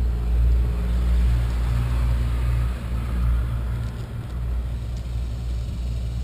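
A steady low rumble, with faint handling noise above it in the first few seconds.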